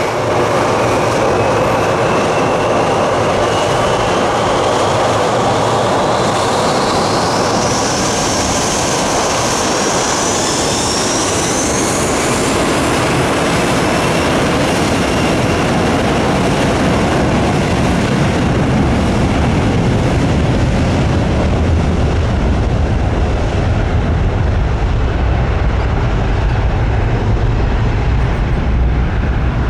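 Jet aircraft engines spooling up to takeoff power: a thin whine rises steadily in pitch over the first twelve seconds under a loud roar. The roar then settles into a deep, steady rumble.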